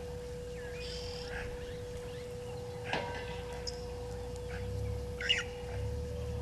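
Wild birds giving short, scattered calls, about five in all, over a steady low background rumble and a constant thin hum.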